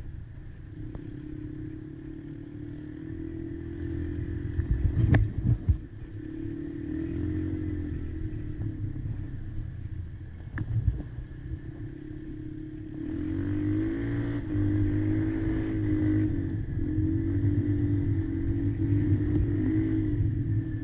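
Quad engine running with its pitch rising and falling, sharp knocks about five seconds in and again near eleven seconds. It gets louder and busier from about thirteen seconds in as the revs rise.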